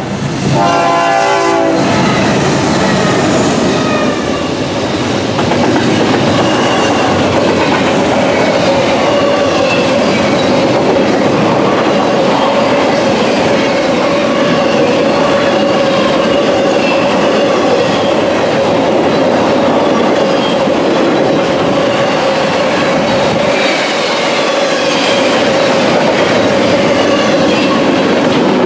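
A train horn sounds a chord that cuts off about two seconds in. The train's cars then roll past with clattering wheels, a steady tone running through the rolling noise.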